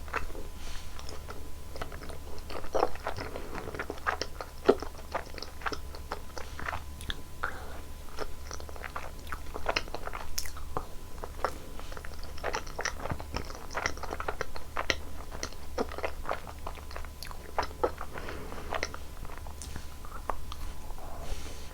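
Close-miked eating sounds of ice cream desserts being bitten and chewed: a steady run of short, sticky, wet mouth clicks and soft crunches, several a second.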